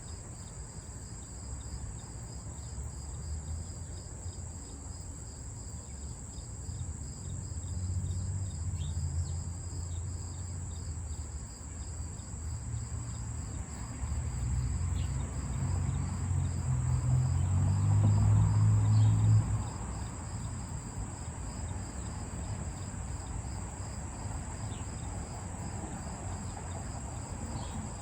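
Crickets chirping in a steady chorus: a continuous high trill with a regular pulsed chirp running through it. A low rumble swells slowly to become the loudest sound, then cuts off abruptly about two-thirds of the way through.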